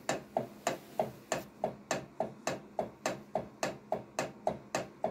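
Camshaft knocking in the bearing caps of a Lada Granta VAZ-11183 cylinder head, sharp clacks about four times a second: the knock comes from too much radial and axial camshaft play, which the caps will be reworked to take up.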